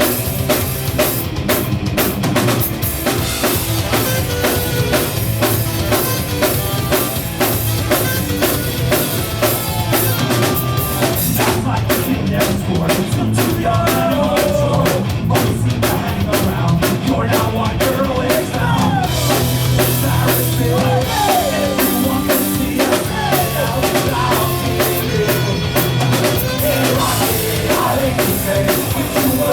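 Live rock band playing an instrumental passage, driven by a full drum kit, loud and steady.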